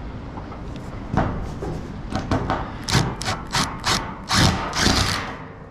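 Irregular knocks and thuds of sheet steel against the wooden barn door as it is worked into place and fastened, starting about a second in; the fastener is not catching in the rotten wood.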